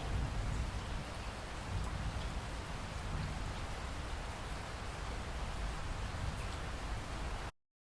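Steady rain falling, with scattered drop ticks over a low rumble. It cuts off abruptly near the end.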